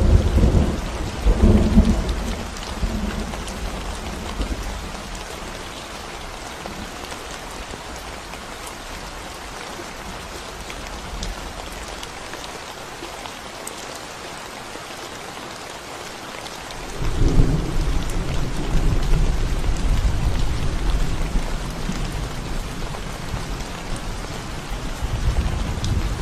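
Steady rain falling on a concrete road, an even hiss of drops. Deep low rumbling sounds over it in the first few seconds, then starts suddenly again about two-thirds of the way through and carries on.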